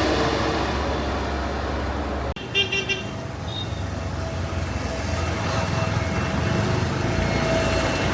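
Steady engine and traffic rumble. It breaks off sharply about two seconds in, then a short vehicle horn toots, and a steady engine whine carries on under the rumble.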